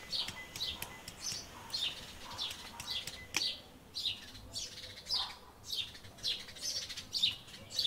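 Small birds calling: a steady series of short, high chirps, each falling in pitch, about two a second, with a single sharp click about three and a half seconds in.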